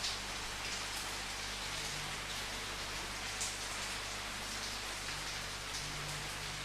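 Steady rain falling, an even hiss with a few louder individual drops splashing now and then.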